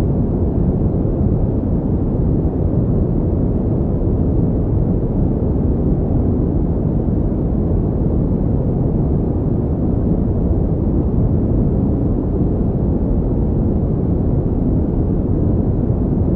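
Steady synthetic pink noise: a constant, even hiss-like rumble weighted toward the low end, with no change in level or character.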